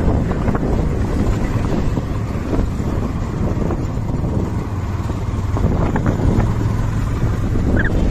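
Heavy diesel machinery running steadily under load, with a strong low engine hum and scattered knocks and rattles, and wind buffeting the microphone.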